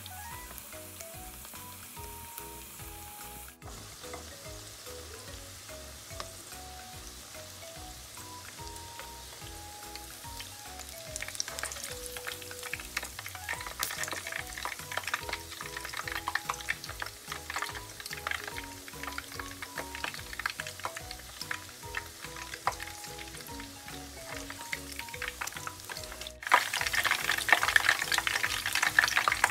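Sweet corn fritters deep-frying in hot oil in a wok, sizzling and crackling. The crackle is faint at first, grows from about a third of the way in, and is loudest in the last few seconds. Soft background music with a melody and a steady low beat runs underneath.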